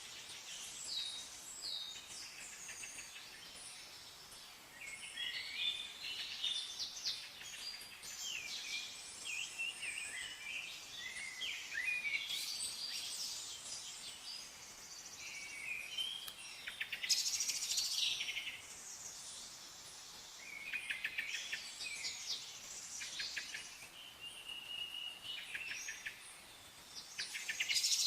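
Several songbirds chirping and singing together: many short overlapping calls, trills and rapid chattering notes over a faint steady hiss.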